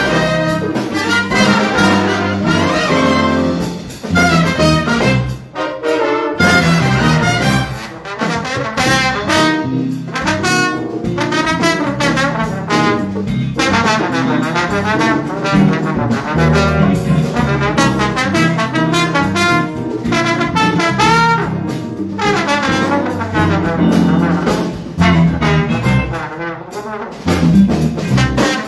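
A student jazz big band plays a loud brass-led passage, with trumpets and trombones over a rhythm section. There are brief breaks or stop-time hits about four to six seconds in and again near the end.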